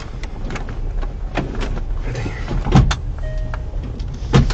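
Clicks and knocks of a car's mechanical front-seat adjuster, the lever and seat runners being worked, with the loudest knock a little under three seconds in and another near the end, over the steady low rumble of the car. A brief thin tone sounds about three seconds in.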